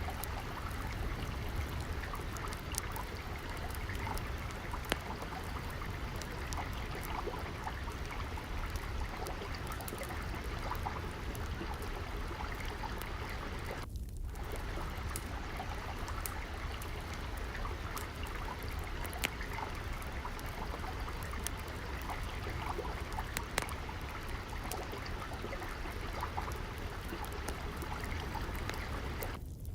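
Water trickling and flowing steadily, with scattered sharp pops of a crackling wood fire over it. About halfway through, the water sound drops out for a moment.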